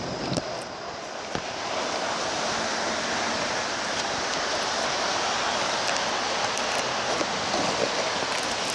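Steady hiss of rain, growing a little louder about two seconds in, with a few small clicks.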